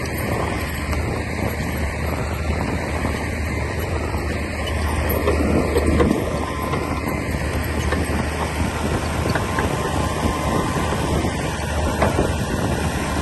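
Komatsu D60P bulldozer's diesel engine running steadily as the machine works soil, with a constant low hum that grows briefly louder about six seconds in.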